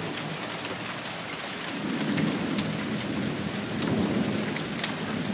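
Steady rain with small hail still falling, scattered pellets ticking on surfaces, and a low roll of thunder swelling from about two seconds in and easing toward the end.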